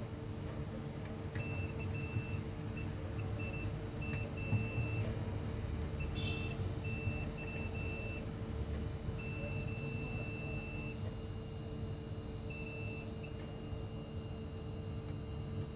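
Electronic beeper sounding in short, irregular high-pitched beeps, with one longer held tone partway through, over a steady low electrical hum.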